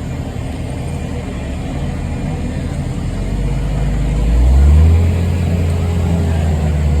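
Racing motorboat engine running, rising in pitch and growing loudest a little under five seconds in, then holding a steady low drone.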